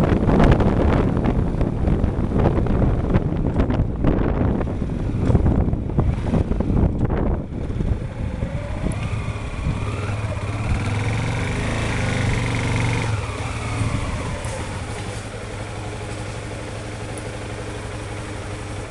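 Motorcycle engine running, at first partly buried under wind buffeting the microphone. After about eight seconds the engine comes through clearly, its pitch rising and falling briefly before settling to a steady run.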